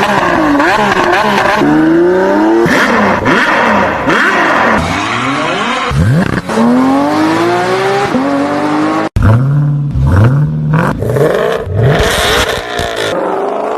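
High-performance car exhausts accelerating hard, the engine note rising again and again as it climbs through the gears. About nine seconds in it cuts abruptly to another car revving in short rising pulls.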